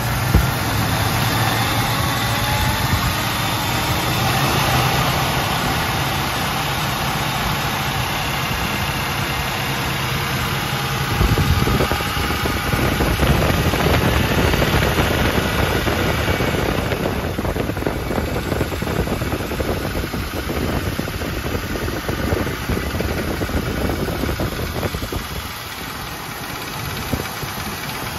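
AMC 360 V8 engine idling steadily with a tapping noise running through it.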